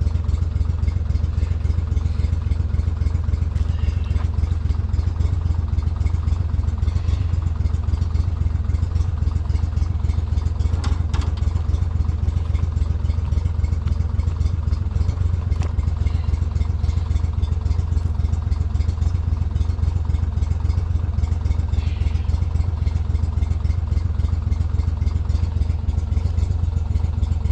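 Boat motor running steadily, a constant low drone with no change in speed.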